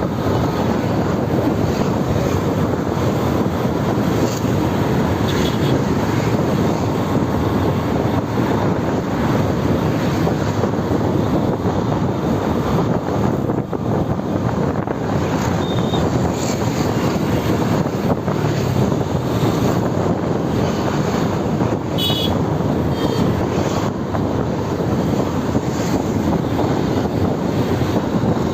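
Steady rush of wind and motorbike road noise while riding through traffic, with a brief high-pitched sound about twenty-two seconds in.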